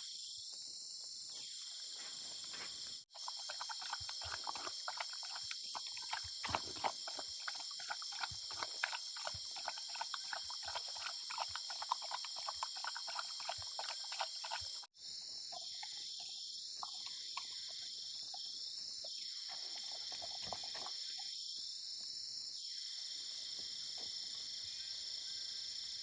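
Steady high-pitched chorus of insects such as crickets, with scattered light clicks and ticks through the middle. The sound drops out for a moment twice, at cuts.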